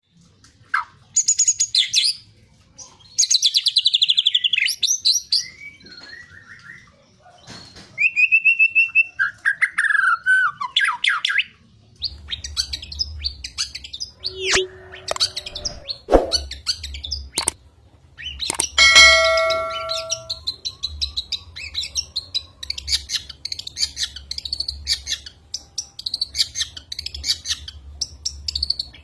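Long-tailed shrike (cendet) singing in loud bursts of rapid, varied, high-pitched phrases that include mimicked calls of other birds. A low steady hum comes in about halfway through.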